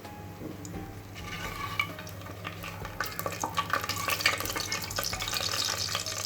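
Whole spices sizzling and crackling in hot oil and ghee in a pressure cooker as they are stirred, with sharp pops and clicks. The frying builds about a second in and grows louder and denser from about three seconds in.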